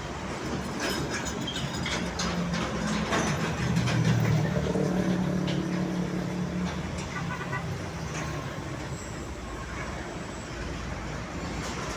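A large truck's diesel engine running as it passes, its hum swelling to its loudest about four seconds in, then fading away.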